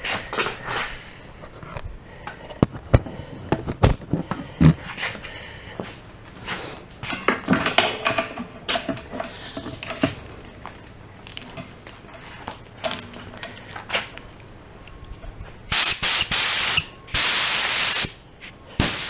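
Clicks and rattles of an air hose being handled and coupled to a 33-gallon Craftsman air compressor, then, near the end, loud blasts of compressed air let out of the hose in short bursts, about three times. The tank is charged to 150 psi, and the air coming out shows that the repaired compressor works.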